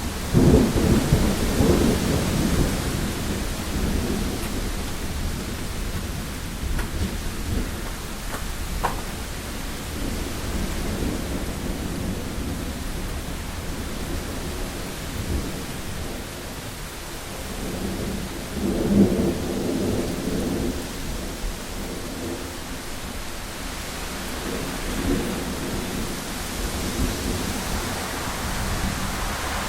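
Rain falling steadily on a window, with rolls of thunder rumbling over it: a loud one right at the start that fades over a few seconds, another about two-thirds of the way through, and a smaller rumble soon after.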